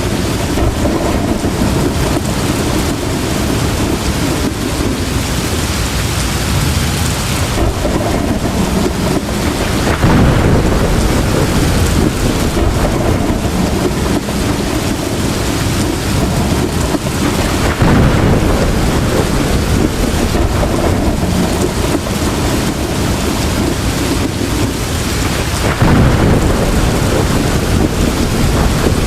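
Heavy rain falling steadily, with rolls of thunder swelling three times, about eight seconds apart.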